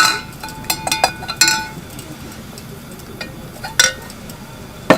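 Tableware and utensils clinking: a string of sharp knocks, several leaving a short ring, thickest in the first second and a half, then a few more spaced knocks.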